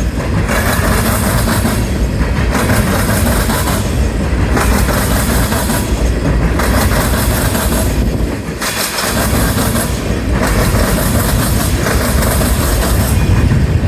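Manifest freight train cars passing at speed, with steel wheels clattering over the rails. The sound dips briefly about every two seconds.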